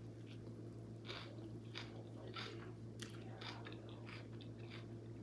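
A person chewing a bite of focaccia sandwich with slaw close to the microphone: soft, crunchy chews at irregular intervals. A steady low hum runs underneath.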